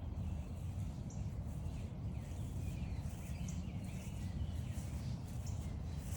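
Several wild birds calling and singing in short chirps and phrases, over a steady low rumble.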